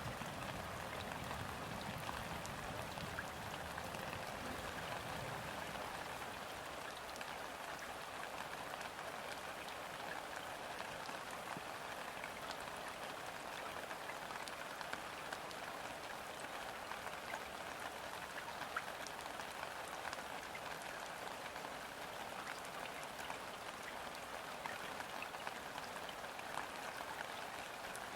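Steady rain falling on a river's surface, a dense even hiss of countless drops with fine individual drip ticks scattered through it. A faint low rumble dies away in the first few seconds.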